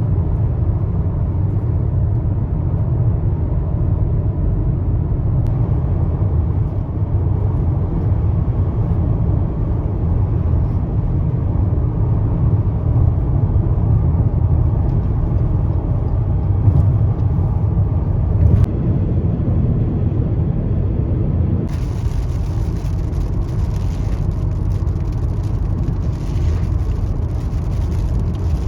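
Steady low rumble of a car driving, engine and tyre noise. About 22 seconds in, a brighter hiss joins it and carries on.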